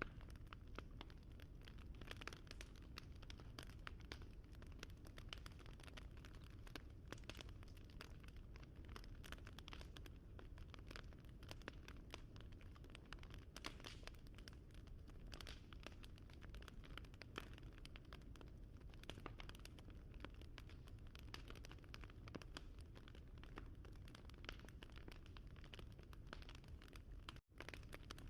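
Wood fire crackling faintly: dense, irregular pops and snaps over a low rumble of burning, breaking off for an instant near the end.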